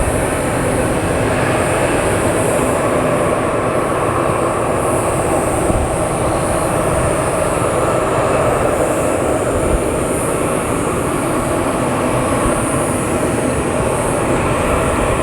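Bombardier DHC8-Q400 turboprop taking off, a loud steady rumble and roar of its engines and propellers with no breaks.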